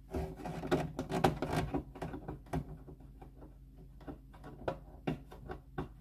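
Fingernails scratching and picking at a stuck protective sticker on a new fridge freezer's panel: a run of irregular small scrapes, clicks and taps, busiest in the first couple of seconds.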